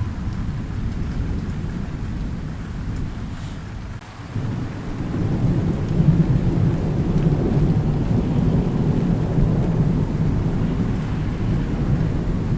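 Thunderstorm: rolling thunder over steady rain. One rumble fades out, and about four seconds in a new, deeper rumble swells up and keeps rolling to the end.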